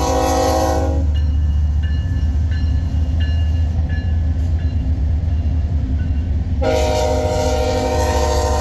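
Diesel freight locomotive horn on a BNSF grain train: a blast that ends about a second in, then another long blast starting near the end, over a steady low rumble.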